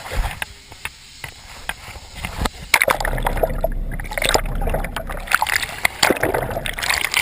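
Water splashing and sloshing close to the microphone, with many small clicks and slaps; it gets louder and busier about three seconds in.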